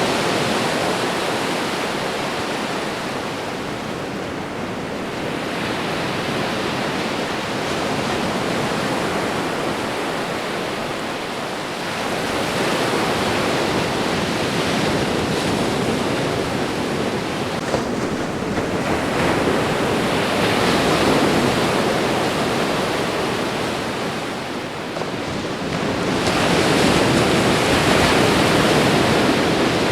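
Ocean surf washing onto a shore: a continuous rush of waves that swells and fades several times, every six to eight seconds.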